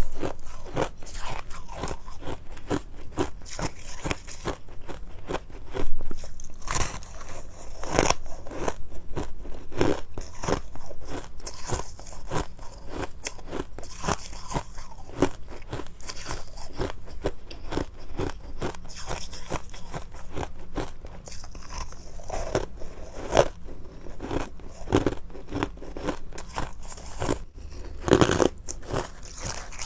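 Ice being bitten and chewed close to the microphone: a dense, continuous run of crunches and cracks, with louder bites about six and eight seconds in and again near the end.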